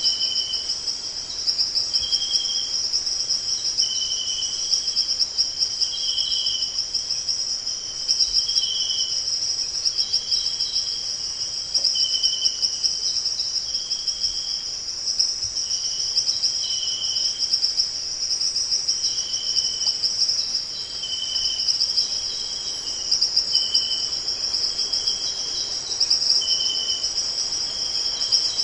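Continuous high, finely pulsing insect trill, like crickets, with a second caller giving short repeated notes about every one to two seconds.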